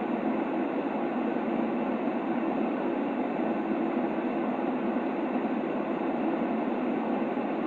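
Steady sleep-aid white noise: an even, muffled rushing hiss with most of its weight in the lower middle, no deep bass and no bright top, unchanging throughout.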